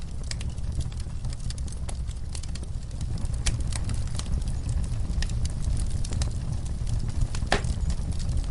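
Wood fire in a fireplace crackling with irregular sharp pops over a steady low rumble from the flames. One louder pop comes near the end.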